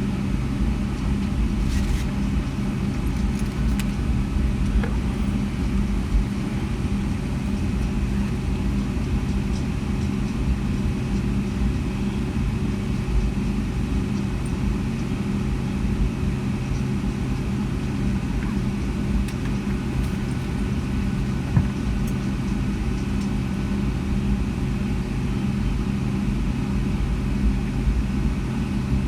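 Inside the cabin of a Boeing 757-200 taxiing with its engines at idle: a steady low rumble with a constant hum, and a few faint knocks from the airframe.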